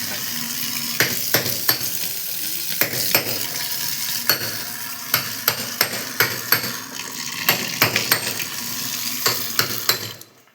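Water running from a bathroom fitting, a steady hiss, with many sharp clicks and metallic knocks scattered through it. The hiss stops abruptly near the end.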